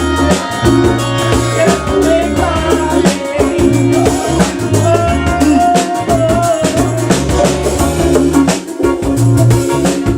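Live band playing an instrumental passage: drum kit and bass keeping a steady groove under a held, bending melody line.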